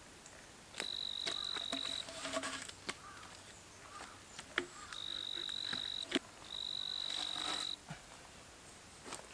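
An insect trilling: a steady high-pitched tone held for about a second, three times. Scattered sharp clicks and crackles sound between the trills.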